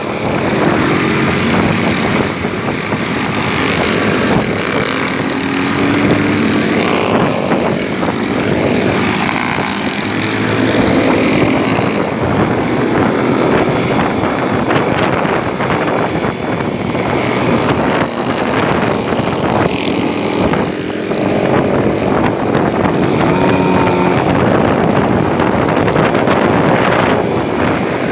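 Motorcycle engine running under way, its pitch rising and falling with the throttle, with wind rushing over the microphone.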